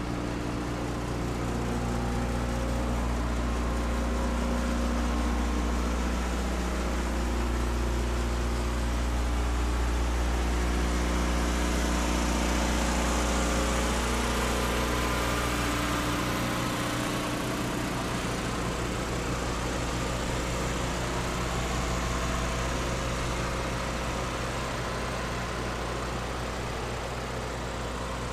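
Schwarze M6 Avalanche street sweeper running steadily with its engine idling, and a higher hiss that swells and fades about midway.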